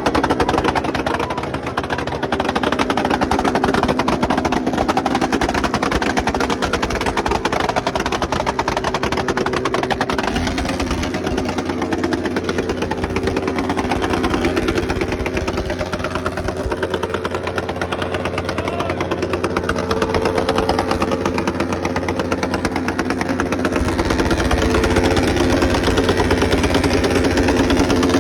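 Motorcycle engine running steadily, with the low rumble getting stronger about ten seconds in and again near the end.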